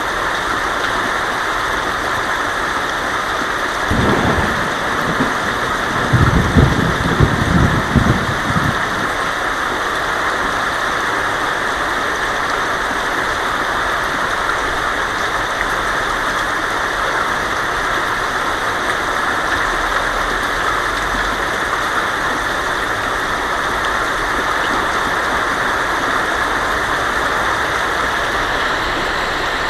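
Heavy rain falling on a tin roof as a steady hiss, with a short rumble of thunder about four seconds in and a louder, rolling thunder rumble from about six to eight and a half seconds.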